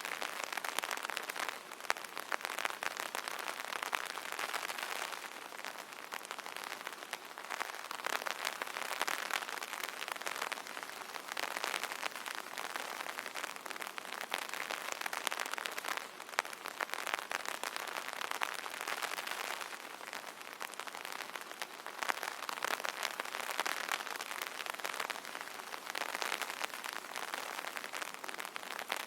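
Rain falling on an umbrella: a dense hiss of countless small drop taps that swells and eases every few seconds.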